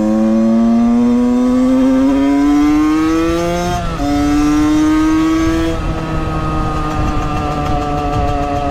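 Valenti 50 motard's 50cc two-stroke engine pulling hard with a steadily rising note, dropping in pitch at a quick upshift about four seconds in, then holding a steadier, slightly quieter note at cruising speed, over low wind rumble.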